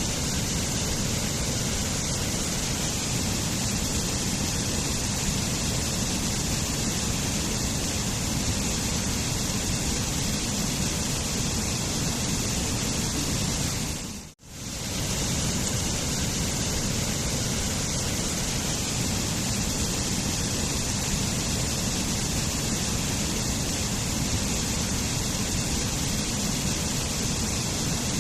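Waterfall rushing steadily, a constant hiss of falling water. About halfway through it briefly fades out almost to silence and straight back in, as a looped recording restarts.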